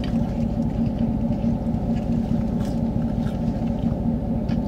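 Steady low rumble and hum of a vehicle idling, heard from inside the cab, with a few faint clicks.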